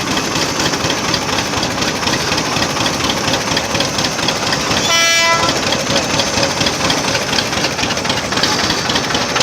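Old tractor engine running steadily at close range, its fast firing beat even throughout. About halfway through comes one short, high-pitched toot.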